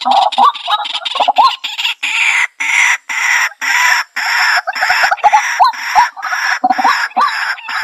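White-breasted waterhen giving its territorial call: a loud, continuous run of short, harsh notes repeated several times a second, with no break.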